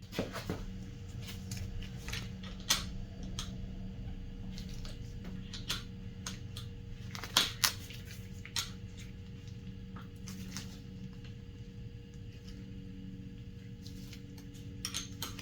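Scattered clicks and light taps from hand tools and parts being handled while the handlebar clamps on a dirt bike are loosened and reset, over a steady low hum.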